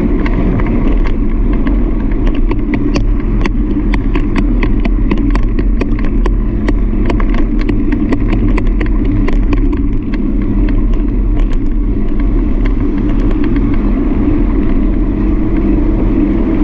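Steady low running noise of a bike ride picked up by the rider's action camera, with frequent sharp rattles and clicks through the middle stretch.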